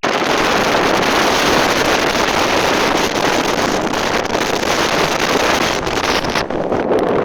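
Loud, steady wind rushing over the microphone while moving at speed, with no clear engine note above it.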